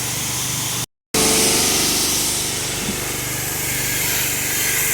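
Small engine of a mobile car-wash rig running steadily, with a high hiss of water spray over it. The sound cuts out for a moment about a second in, then carries on.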